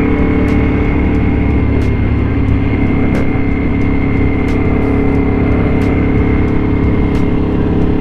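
Motorcycle engine running at a steady cruising speed with road and wind noise. The pitch holds level throughout.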